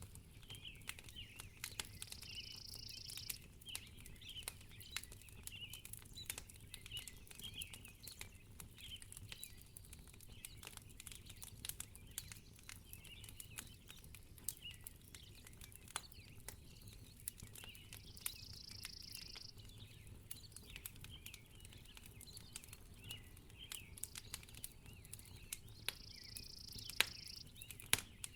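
Faint wood fire crackling in a fireplace, with many small irregular pops and snaps over a low steady rumble. Faint high chirping runs through it, and there are three brief high hisses, one early, one about two-thirds in and one near the end.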